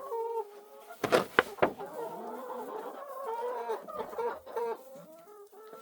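Hens clucking, with three sharp knocks between about one and two seconds in. Two hens are picking on a third.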